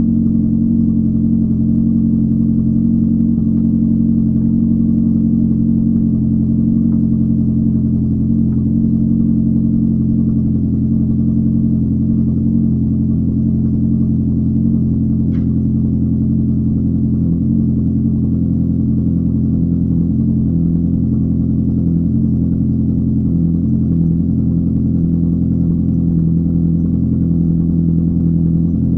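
Mazda 626's 1.8-litre four-cylinder engine idling steadily in extreme cold, still warming up after a cold start at −25 °C on thick 15W40 oil. The engine speed holds even, with no revving.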